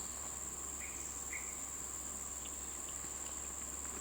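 Steady high-pitched insect chorus from the surrounding trees, with two faint short chirps about a second in.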